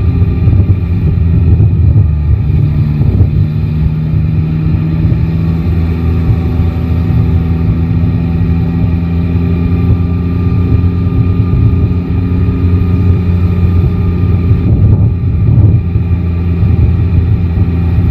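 Yamaha Tracer 9 GT's 890 cc inline three-cylinder engine running at a fairly steady pitch, with a heavy low rumble of wind over the microphone.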